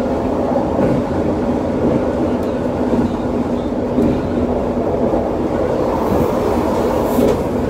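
Elevated light-metro train running along its guideway, heard from inside the car: a steady running rumble with a constant hum. From about six seconds in, a train passing the other way on the adjacent track adds a short rush of hiss.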